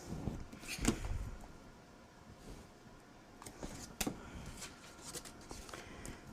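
Paper and cardstock being handled on a craft table: light rustling with a few sharp taps and clicks, the loudest about a second in.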